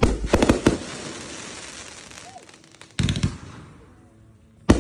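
Aerial fireworks going off in volleys: a quick cluster of sharp bangs at the start, another about three seconds in, and a third just before the end, each followed by a rumbling echo that dies away.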